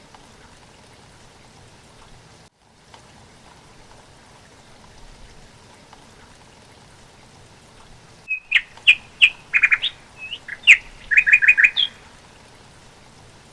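A songbird sings a loud run of quick chirps and short trills for about three seconds, starting a little past halfway, over a faint steady hiss.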